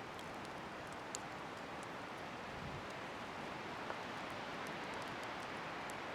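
Outdoor bonfire burning in the wind: a steady rush of wind with small, sharp crackles from the fire scattered throughout.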